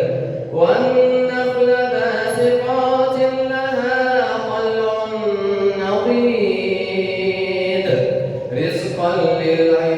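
A male reciter's voice in melodic Quran recitation (tajweed), holding long, ornamented notes that glide in pitch. He takes breaths about half a second in and again around eight and a half seconds.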